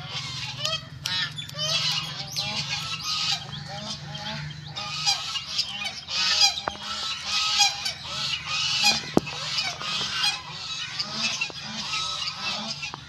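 A flock of fowl calling at once, many short overlapping calls throughout, with a steady low hum underneath.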